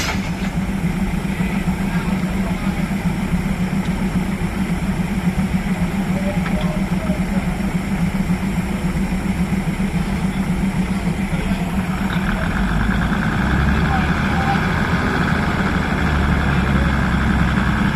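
Diesel railcar engine idling steadily. About twelve seconds in, a steady higher whine joins and the low rumble grows stronger.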